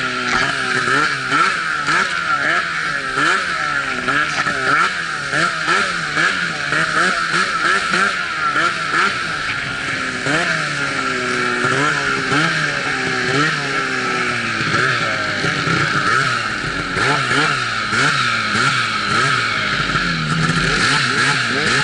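Snowmobile engine revving up and down over and over, its pitch climbing and dropping every second or so as the throttle is worked. A steady loud hiss from the track and snow runs underneath.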